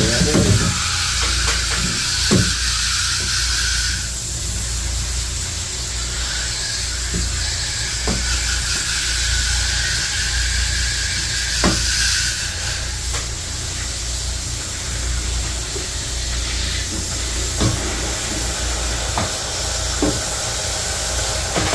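Water spraying from a garden hose spray nozzle, a steady hiss that changes in strength a few times, with a steady low rumble underneath and occasional sharp clicks and knocks.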